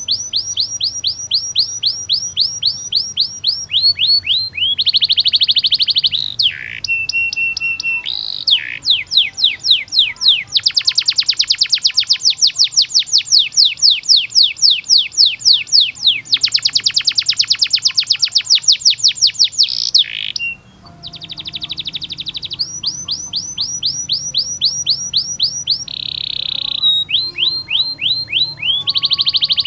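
Domestic canary singing long rolls, rapid runs of downward-sweeping high notes repeated many times a second. The runs change in speed and pitch, and there is a long, very fast trill in the middle. The song breaks off briefly about twenty seconds in, then resumes.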